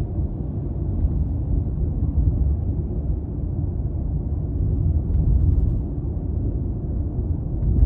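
Steady low drone of a 200-series Toyota Crown Athlete cruising, its 2.5-litre V6 mixed with tyre and road noise.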